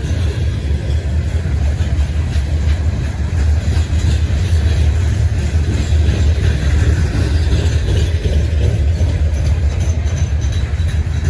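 A freight train rolling past: a steady, loud low rumble of cars on the rails.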